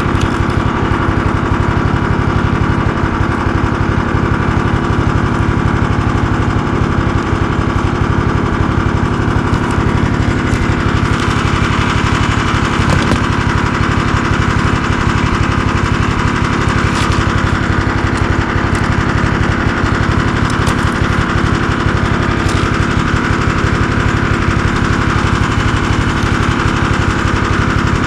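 Loud snowmobile engine running steadily at an even speed, with a fast, regular firing pulse.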